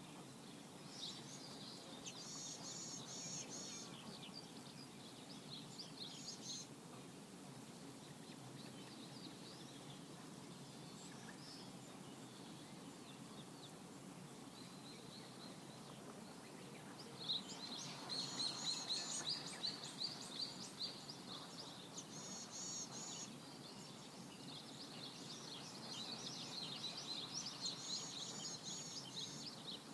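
Small birds chirping and singing in short bursts of quick, high notes, busiest a little past halfway and again near the end, over a steady low background noise.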